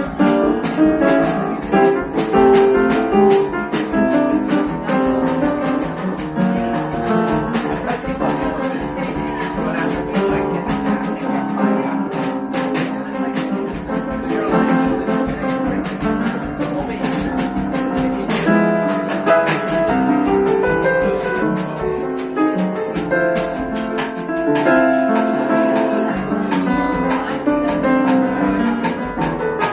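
A small jazz band playing live, with pitched instruments such as piano and guitar over a light, steady ticking percussion.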